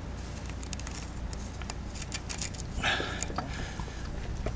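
Light scattered clicks and taps of small tools and parts being handled while working on an old engine's ignition points, with a short hiss about three seconds in, over a steady low hum.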